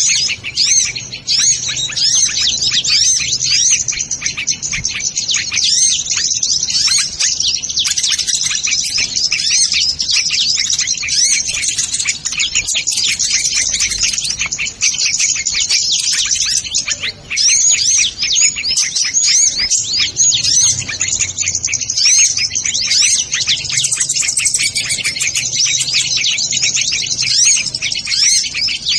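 Dense, unbroken high-pitched chirping and twittering of sunbirds ('kolibri ninja'): rapid sweeping notes follow one another without a pause.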